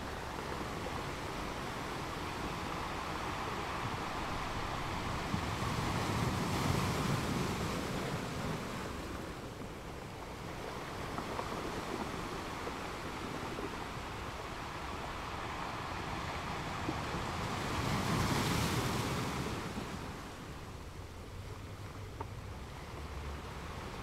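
Ocean surf: a steady wash of waves that swells up twice, about twelve seconds apart.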